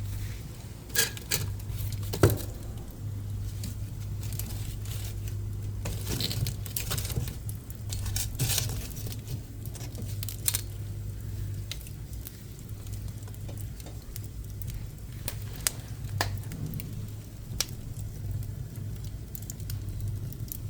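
Pine offcuts burning in a wood-burning stove, crackling with scattered sharp pops, the loudest about two seconds in, over a steady low hum.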